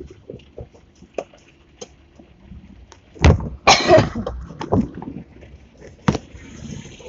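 Scattered knocks and clicks, with a loud thump about three seconds in followed at once by a short rustling burst, and another sharp knock near the end.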